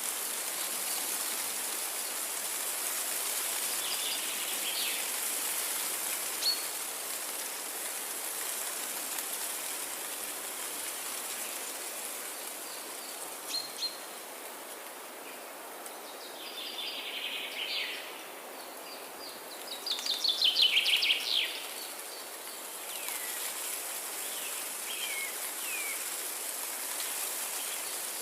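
Forest ambience: a steady background hiss with songbirds calling now and then. The loudest call, about two-thirds of the way in, is a quick series of notes falling in pitch, and short down-slurred calls follow near the end.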